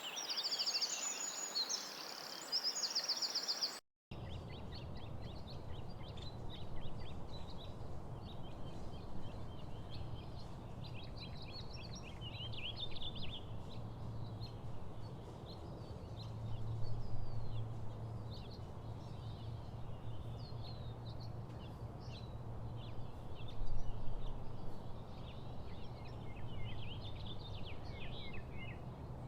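Several songbirds chirping and trilling, over a low steady outdoor rumble. The sound drops out for a moment about four seconds in, and a different bird chorus follows.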